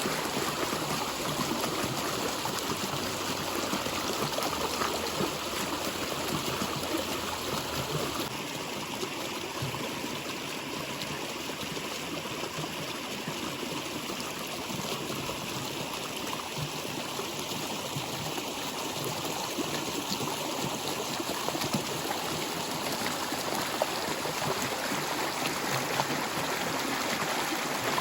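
Natural flowing water, running steadily as an even, unbroken rush.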